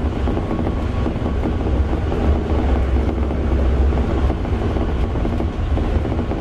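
Toei 5300 series electric train running, heard from inside the car: a steady, heavy low rumble of wheels on rail and car body, with a faint steady whine in the mix.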